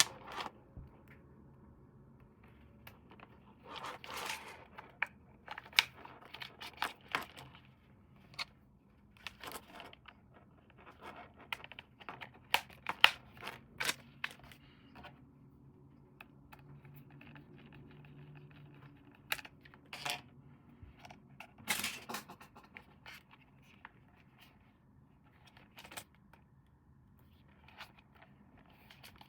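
Packaging being handled and opened by hand: irregular tearing, scraping and crinkling with sharp clicks, in bursts separated by quieter pauses.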